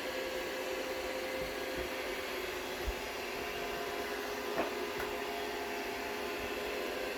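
Roomba robot vacuum running with a steady motor whir while it manoeuvres, with a soft thump about three seconds in and a sharp click a second and a half later.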